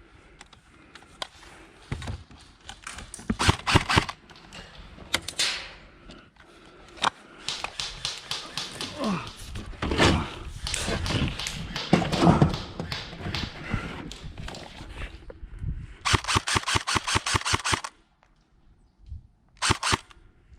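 Airsoft guns firing: scattered shots and quick strings of shots, then a rapid, evenly spaced burst lasting about two seconds, and a short burst near the end.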